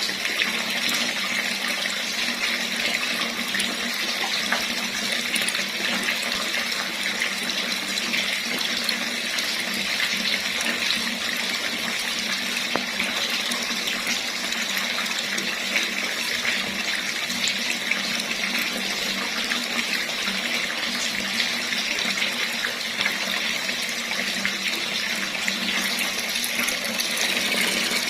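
Water running steadily from a tap, an even splashing rush with no change.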